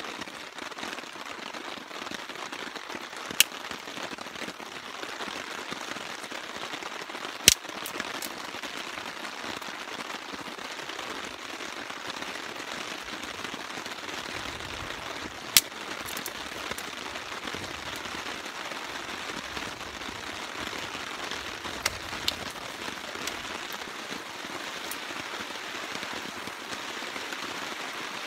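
Steady rain falling, with a few sharp isolated pops, the loudest about a third of the way in and a quick pair near the end.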